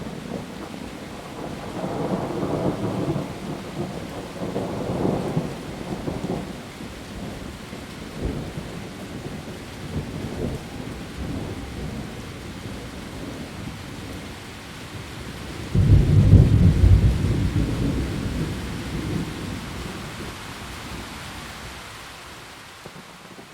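Heavy rain falling on leaves, with low rolls of thunder. About two-thirds of the way through, a sudden loud clap of thunder breaks in and rumbles away over several seconds.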